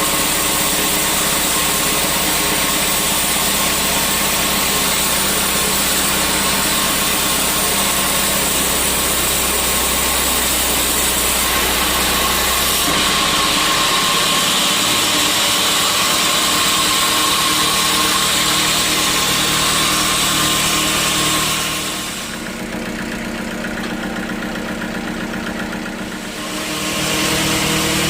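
Sawmill machinery running steadily: a motor hum with a high whine and hiss over it. About thirteen seconds in the deepest hum drops away, and near the end the sound grows quieter for a few seconds before coming back up.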